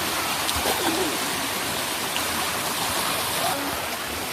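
Steady rush of water cascading over the limestone rocks of a waterfall and its stream.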